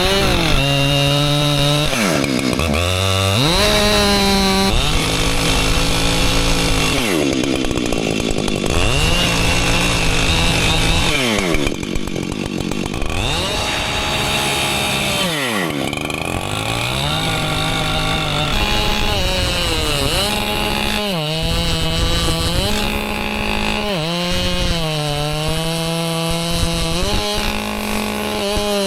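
Two-stroke chainsaw with a dull chain cutting through a stump at ground level. The engine note sags under load in the cut and climbs back several times.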